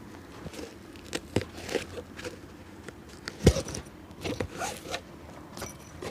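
A cobbler's hand work on a shoe: scattered scrapes and light taps, with one sharp knock about three and a half seconds in.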